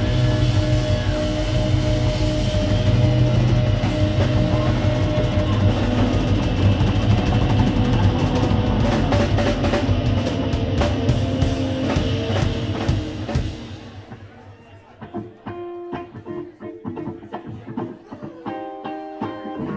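Live band playing, with drum kit and guitar. About fourteen seconds in the full band drops away, leaving sparse plucked guitar notes.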